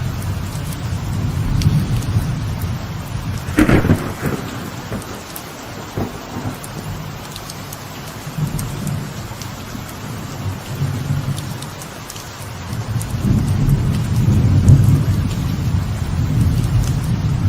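Light rain falling on a veranda, with rolling thunder. Low rumbles swell and fade over the steady patter, with a short, sharp crack about four seconds in and a longer rumble building toward the end.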